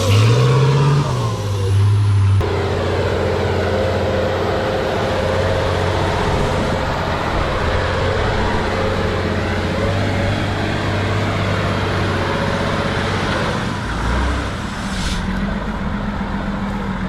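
Heavy off-road trial truck's engine working hard, its revs rising and falling in the first couple of seconds and then held steady for most of the stretch. The sound changes abruptly about two seconds in and again near the end.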